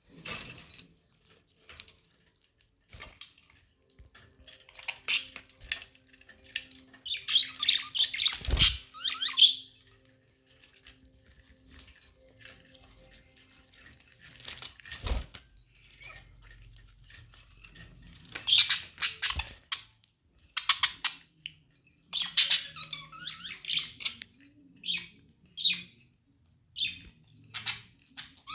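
Budgerigars chirping and squawking in short, irregular bursts, busiest in the middle and toward the end. Two sharp knocks come about eight and fifteen seconds in.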